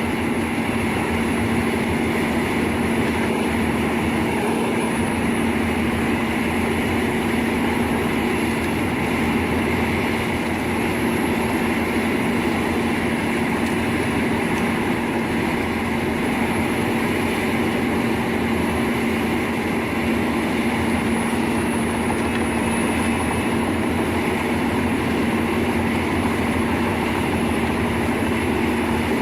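Heavy wood-processing machine's engine running at a steady speed, with a constant hum and a thin high whine over it.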